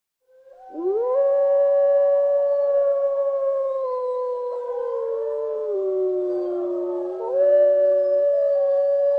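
Several canines howling together in a chorus: long, overlapping howls at different pitches that glide slowly, starting a moment in.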